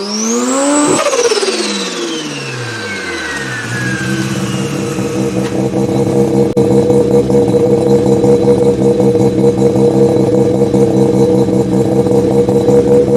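Turbocharged Mazda 13B twin-rotor rotary engine in a BMW Z3: a single rev that climbs and falls back over about three seconds, then settles into a steady idle.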